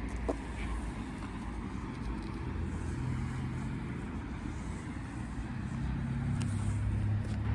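A motor vehicle's engine running steadily nearby, its low hum growing louder over the last few seconds.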